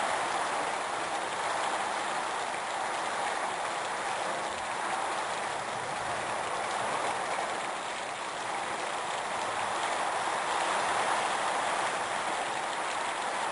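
Heavy storm rain driven by strong wind: a steady, even rushing.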